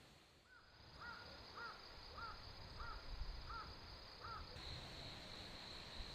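A crow cawing, a quick even series of seven calls about a call every 0.6 s, then stopping.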